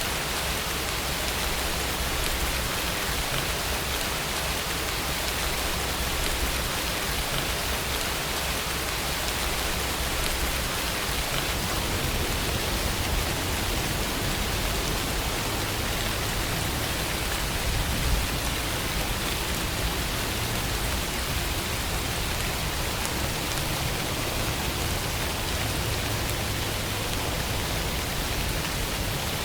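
Steady rainfall, an even hiss of rain falling on surfaces without a break.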